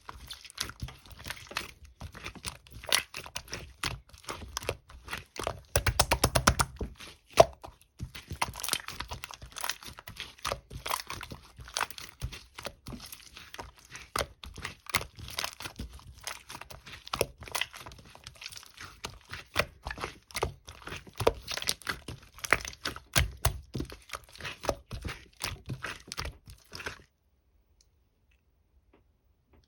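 Crinkling and crackling handling sounds: many sharp clicks and crackles, with a fast run of ticks about six seconds in. It stops abruptly a few seconds before the end.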